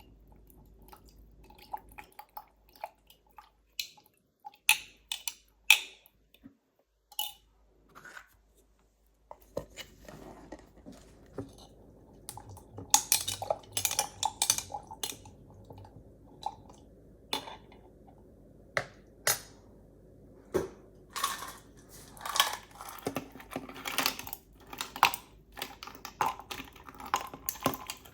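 Dishes and cutlery clinking and knocking in irregular short strikes. They are sparse at first and come thicker in the second half.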